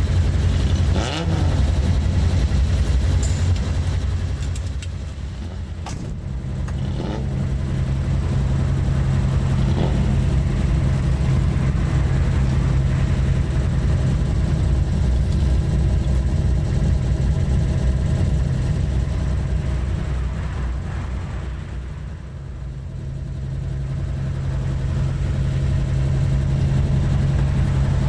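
Engine of a 1970s Nissan Skyline (Ken-Meri) running under way, pulling steadily. Twice the note eases off and then builds again.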